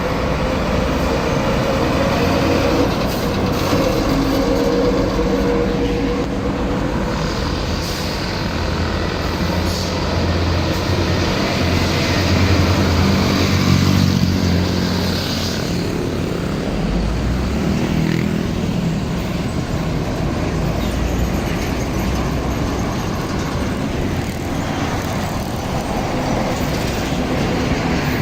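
Heavy trucks passing on a busy road: engines running with tyre and road noise, swelling as each truck goes by, loudest about twelve to fourteen seconds in.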